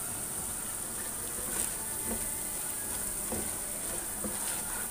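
Onions, ginger-garlic paste and ground spices frying in oil in a pot over a medium-high flame: a steady sizzle, with a few soft scrapes and taps of the stirring spoon.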